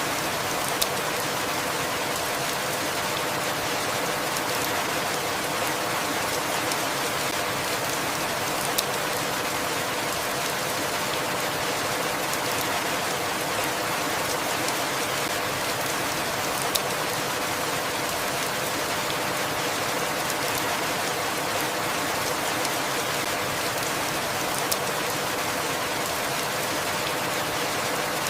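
Steady rain falling: an even, unbroken hiss of drops, with a brief sharp click about every eight seconds.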